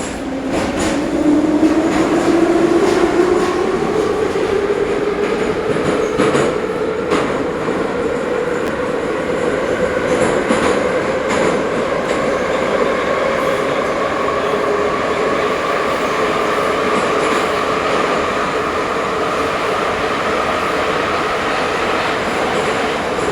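Ezh3 metro train heard from aboard: its traction motors whine, rising in pitch over the first several seconds as the train picks up speed, then holding a steady pitch at running speed. Wheels click over rail joints along the way.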